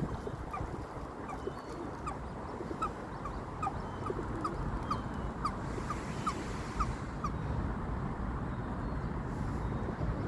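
Eurasian coots calling: a long run of short, clipped notes repeated about twice a second, which stops about three seconds before the end, over a steady low outdoor rumble.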